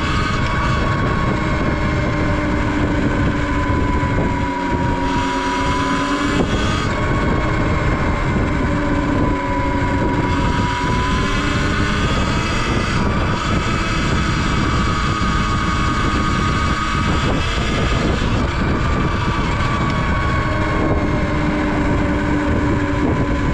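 Segway X160 electric dirt bike's motor whining under way, its pitch sagging and rising again as the speed changes, over a loud, steady rush of wind.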